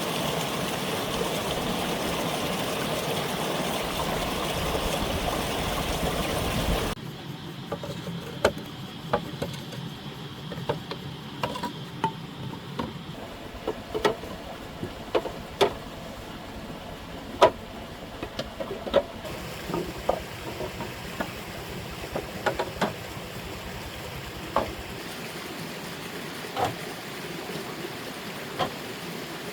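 Steady rushing of a stream for about seven seconds, then an abrupt change to quieter flowing water with a string of irregular sharp knocks and clacks.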